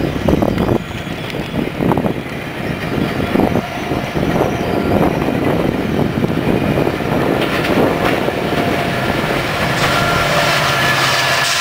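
A train passing close by on the main line, its wheels clattering irregularly over rail joints. Near the end the clatter gives way to a steadier rumble with a faint thin whine.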